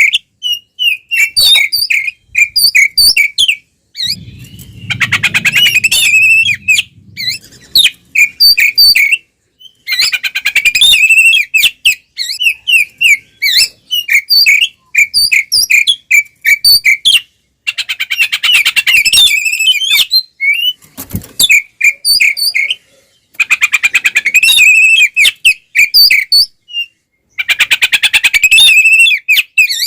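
Oriental magpie-robin (kacer) singing loudly: runs of short whistled notes broken every few seconds by rapid chattering rattles.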